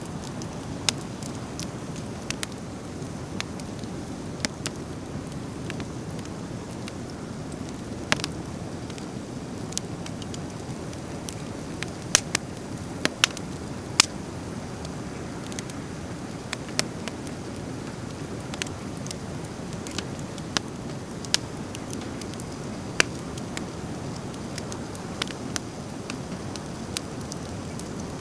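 Driftwood campfire crackling, with irregular sharp pops and snaps, a few of them loud, over a steady low rumble of burning.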